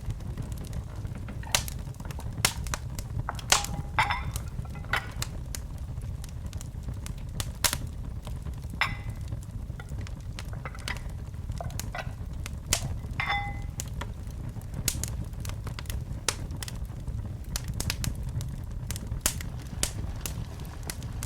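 Wood fire in a fireplace crackling, with irregular sharp pops, a few of them briefly whistling, over a steady low rumble of burning flames.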